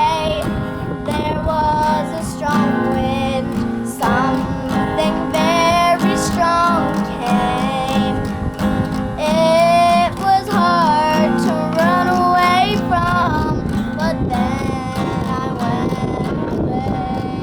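A young girl singing over acoustic guitar.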